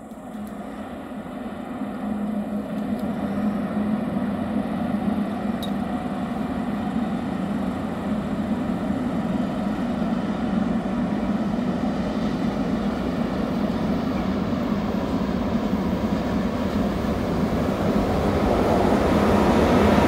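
Freight train hauled by red ÖBB electric locomotives running on the mountain line, a steady rumble of wheels on rail that grows louder as the train approaches, with a further rise near the end as the locomotives come close.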